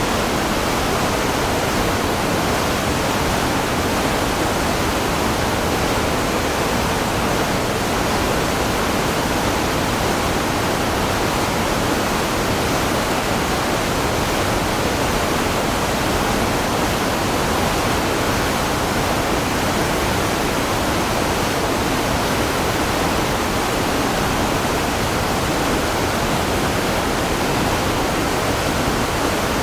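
Steady, even rushing noise that holds constant without breaks or changes.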